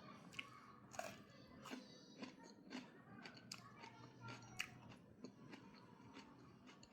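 A person biting and chewing food close up, with irregular crisp crunches and clicks.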